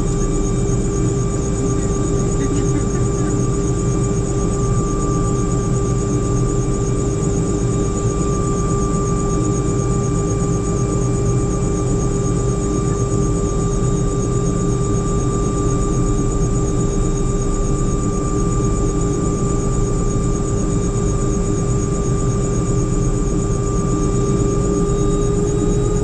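Helicopter running, heard inside the cabin: a steady engine and rotor drone under a constant high whine. The whine edges slightly up in pitch near the end.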